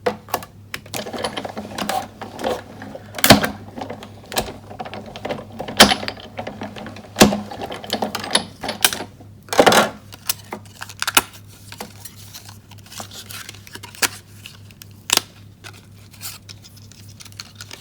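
Sizzix Big Shot die-cutting machine in use: plastic cutting plates and metal circle dies clacking as they are stacked, and the plate sandwich clicking and knocking as it is cranked through the rollers. Irregular clicks, with a few sharp louder knocks.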